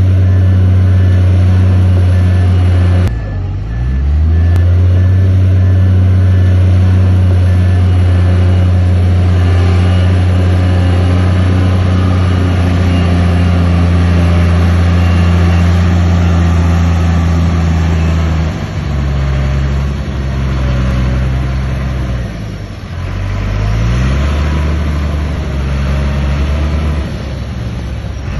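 Bulldozer's diesel engine working hard under load. It drops and revs back up about three seconds in, then eases off in the second half and climbs again, with a faint metallic whine over it.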